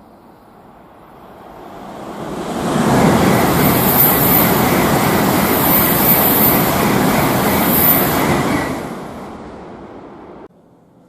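Tokaido Shinkansen train passing through the station at high speed without stopping: a loud rush of air and rail noise that swells over about two seconds, holds for about six seconds with a faint high hiss on top, then fades and cuts off abruptly near the end.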